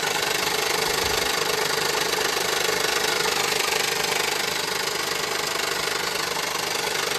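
Honda Pilot 3.5-litre V6 engine idling with a loud, steady mechanical noise, which the mechanic puts down to the timing belt.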